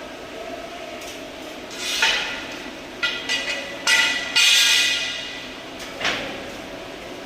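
Metal clanks and knocks from work at a welding bench: about half a dozen strikes, bunched together near the middle, several leaving a short metallic ring.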